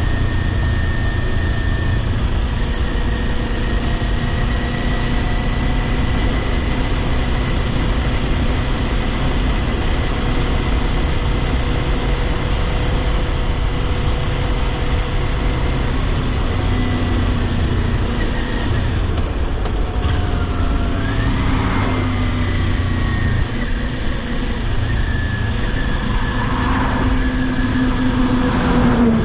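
Kawasaki Ninja 400's parallel-twin engine running at a steady cruise, over a constant low rush. About twenty seconds in the engine pitch drops and then climbs again, and it does so once more near the end, as the throttle is eased and reopened.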